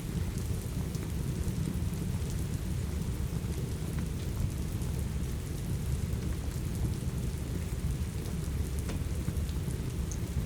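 Steady rain with a deep, even rumble underneath, mixed with a crackling fireplace that gives a few faint scattered pops.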